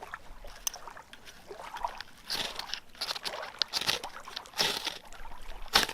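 A knife scraping along a pine stick to shave off curls, in short irregular strokes with crunchy rustles. The last stroke, near the end, is the loudest.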